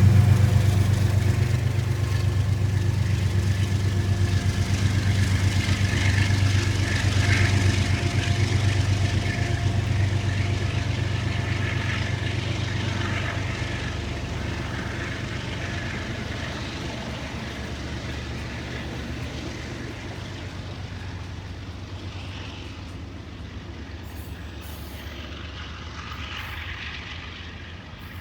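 Passenger train running with a low, steady engine rumble that gradually fades as it moves away.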